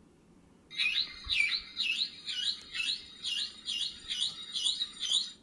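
Electronic toy bird chirping: a run of identical, evenly repeated chirps, about two or three a second, that starts about a second in and cuts off abruptly.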